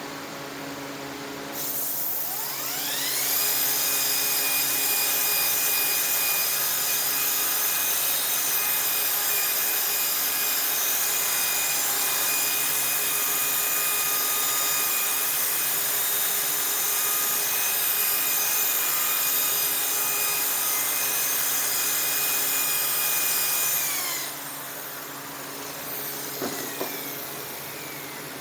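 Electric polishing tool spinning a dome flannel buff charged with green compound against a metal airplane exhaust pipe. It starts about two seconds in with a rising whine, runs at steady speed, then switches off near the end and winds down.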